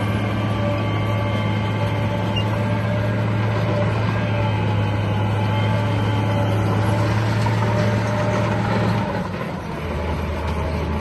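Bulldozer engine running steadily under load, with a deep hum. About nine seconds in it dips briefly and settles at a lower pitch.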